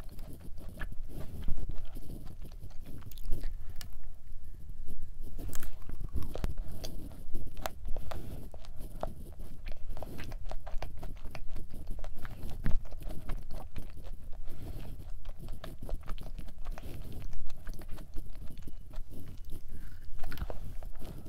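Close-miked chewing of a thick Levain-style chocolate chip cookie: irregular soft crunches and clicks from the mouth, with a fresh bite taken near the end.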